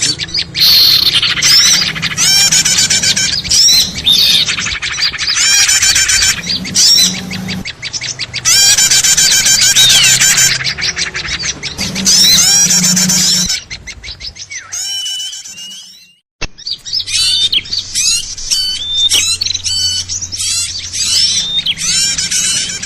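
Bird-lure recording of many small birds chirping and twittering in a dense, noisy chatter. About two-thirds of the way through it drops away briefly with a click, then the chatter resumes.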